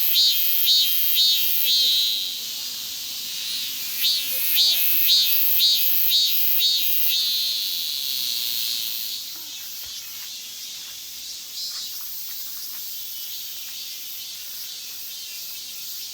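Cicadas singing loudly: two phrases of rhythmic pulses, about two a second, each drawn out into a steady buzz, then a fainter steady cicada chorus for the second half.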